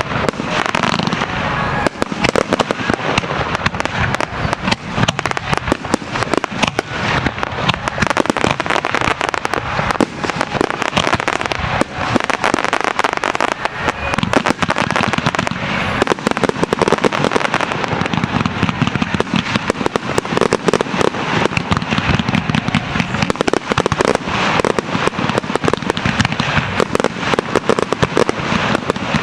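Fireworks starmine barrage: shells launched and bursting in rapid succession, a dense, unbroken run of bangs and crackling reports.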